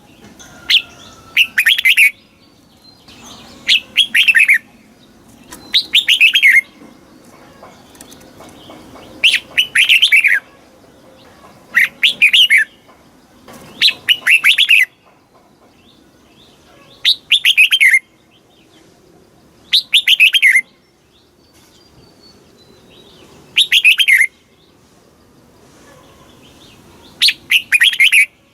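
Red-whiskered bulbul singing: short, loud, bright phrases of quick down-slurred whistled notes, repeated about every two to three seconds, some ten phrases in all.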